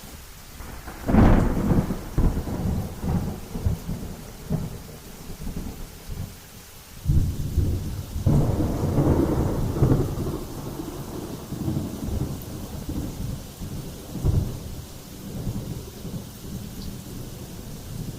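Thunderstorm: rolling thunder over steady rain. A sharp clap of thunder about a second in rumbles away, and a longer, deeper roll starts about seven seconds in, with smaller rumbles after.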